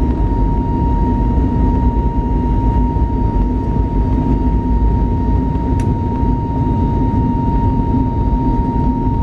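Airbus A320neo jet engines running steadily, heard from inside the cabin as a loud, constant rumble with a steady high-pitched tone on top. A single short click about six seconds in.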